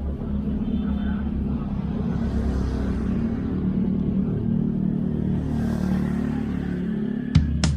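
Street traffic: a steady, low motor-vehicle engine rumble, with the hiss of passing traffic swelling twice. Sharp drum hits of music come in near the end.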